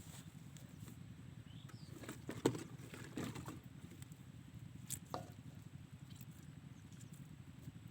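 Diesel engine of a water pump running at a steady low chug, with a few separate knocks and clanks, the loudest about two and a half seconds in.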